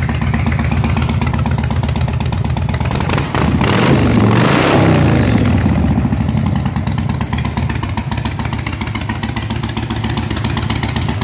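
2004 Yamaha Road Star's 1670cc air-cooled V-twin running at idle through Vance & Hines exhaust, revved once about four seconds in, rising and falling back to idle.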